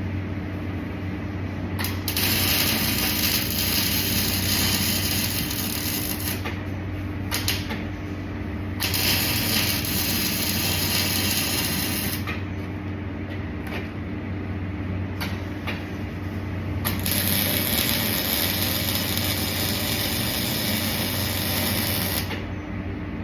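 Welding arc crackling in three runs of a few seconds each, over a steady machine hum.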